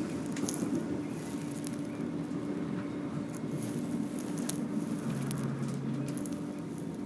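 Inside a moving electric passenger train: the steady rumble of the train running along the track, with a steady motor hum and scattered light clicks and rattles. A lower hum joins for about a second around five seconds in.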